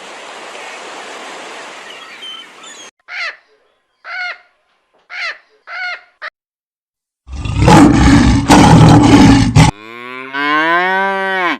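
A string of different animal calls, as in a bird-sound compilation. A few seconds of hiss give way to four short calls about a second apart. Then comes a loud, rough burst of about two and a half seconds, and finally one long call that slides down in pitch.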